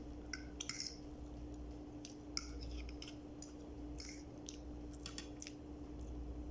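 Eating sounds close to the microphone: a scattering of short, crisp clicks and crunches, about eight in all, over a steady low hum.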